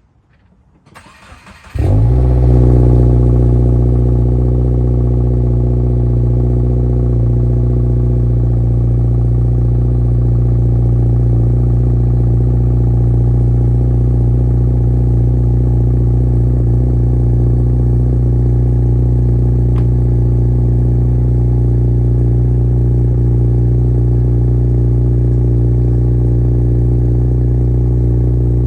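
2022 Subaru WRX's turbocharged 2.4-litre flat-four cold-starting through Nameless 4-inch mufflers: a brief crank, catching about two seconds in with a short flare, then settling into a steady cold idle.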